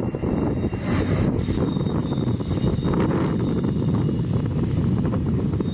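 Union Pacific double-stack container train climbing the grade, its well cars rolling past in a steady rumble of wheels on rail, with a faint high squeal coming and going.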